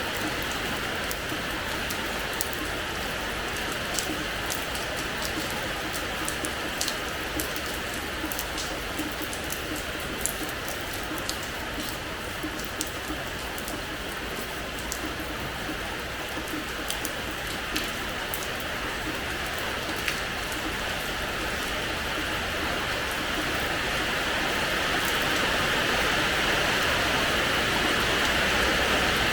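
Steady rain falling on a hard terrace floor: an even hiss with many separate drops ticking and splashing, swelling slightly near the end.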